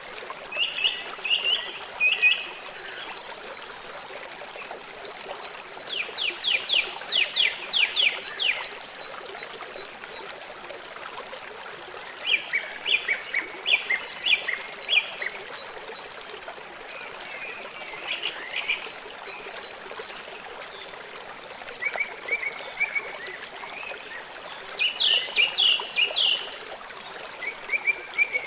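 Steady rushing of a running stream, with repeated bursts of rapid, high-pitched chirping calls every few seconds.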